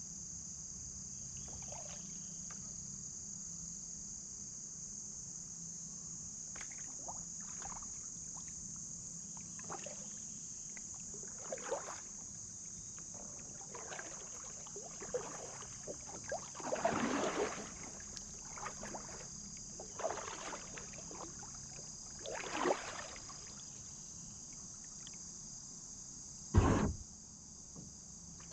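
Kayak paddle strokes, irregular swishes and splashes of water, over a steady high drone of insects. One sharp knock near the end is the loudest sound.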